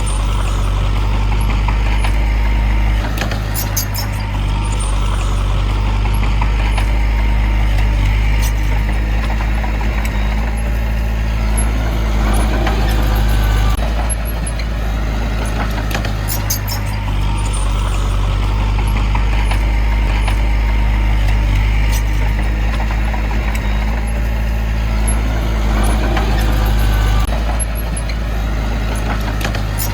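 Heavy diesel engine of an earthmoving machine running steadily under load. Its sound swells and eases roughly every 13 to 14 seconds, with a few sharp clicks on top.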